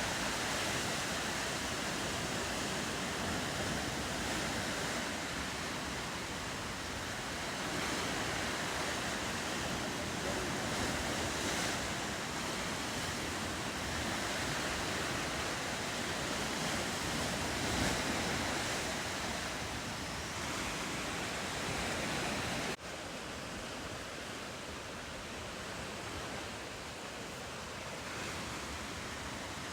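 Ocean surf washing steadily, with wind across the microphone. About three-quarters of the way through, the sound drops suddenly to a quieter level.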